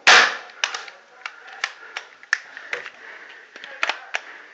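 Paintball markers firing: one loud pop right at the start, then about ten sharper, fainter shots at uneven intervals.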